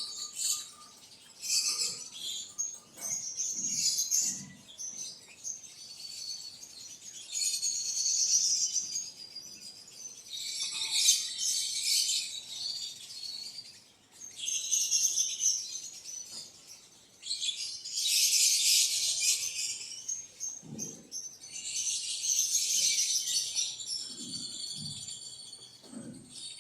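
Small birds chirping and chattering in dense bursts, each lasting a second or two and coming every few seconds, with a few faint knocks in between.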